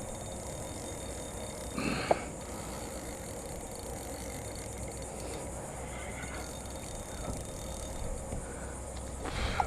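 Two brief knocks, about two seconds in and again near the end, over a steady outdoor background hiss.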